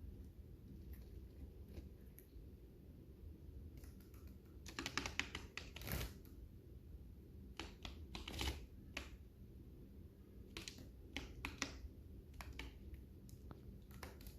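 Lovebirds cracking and husking seeds with their beaks: irregular sharp clicks, coming in quick flurries and then pausing.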